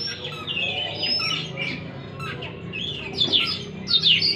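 Oriental magpie-robin singing a fast, varied run of whistles, chirps and squeaky trills, with several phrases overlapping.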